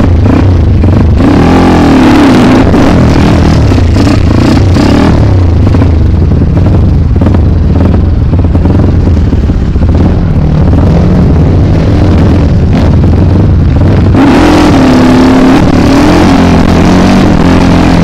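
Trail motorcycle engine running close by, its revs rising and falling now and then over a steady low engine hum.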